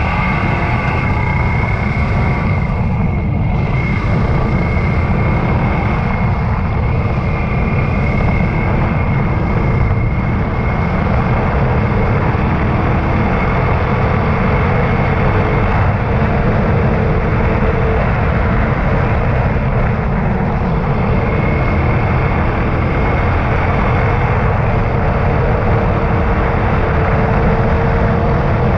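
Yamaha YBR125's single-cylinder four-stroke engine running under way, its pitch drifting slowly up and down, over a steady low rumble.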